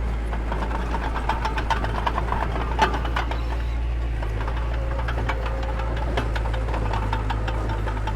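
Mini bulldozer's diesel engine running steadily under a low drone, with rapid metallic clicks and clanks throughout and one sharper clank about three seconds in.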